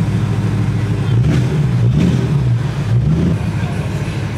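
Car engine running with a steady low hum and a few brief revs that rise and fall in pitch, heard from inside a car's cabin.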